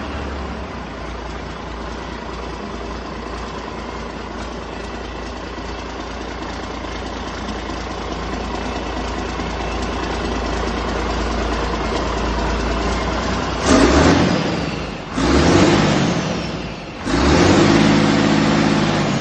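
DAF XF315 ZDE Euro 2 diesel engine idling steadily, then revved three times about a second and a half apart, its pitch rising with each blip and dropping back toward idle.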